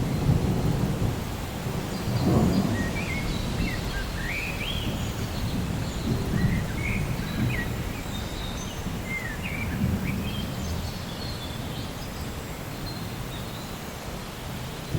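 Rain with low rolling thunder, the rumble swelling a few times. Birds chirp throughout in short calls that slide up and down.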